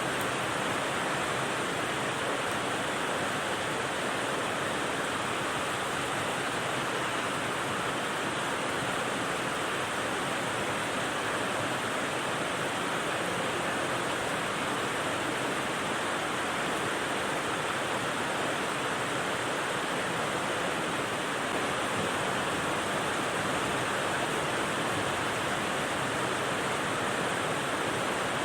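Steady white-noise rain sound: an even, unchanging rush with no separate drops or gusts standing out.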